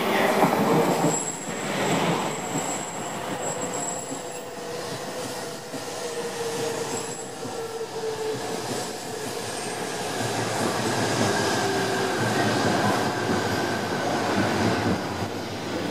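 An E2 series Shinkansen train runs slowly into the platform with a steady rolling rush. A thin, high wheel squeal sounds over the first few seconds, and a whine falls slowly in pitch as the train slows.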